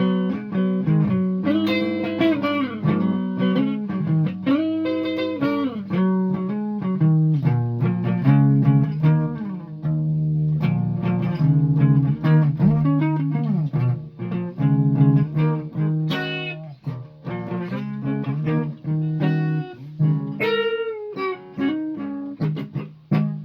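Guitar played as a melody of single plucked notes, with some notes bent up and down in pitch.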